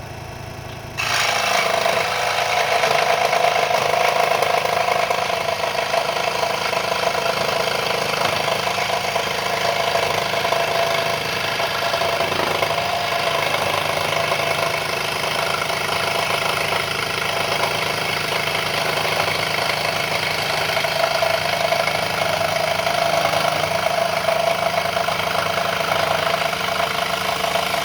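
Wen 3921 variable-speed scroll saw switched on about a second in, its blade running steadily while cutting a straight line through a piece of wood. It stops suddenly at the end.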